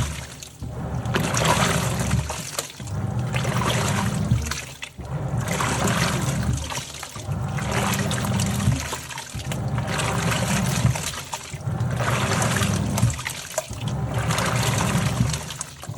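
Top-loading washing machine in its wash cycle: motor hum and sloshing, churning water swell and drop in a steady rhythm of about one surge every two seconds, with a brief lull between surges as the agitator changes direction.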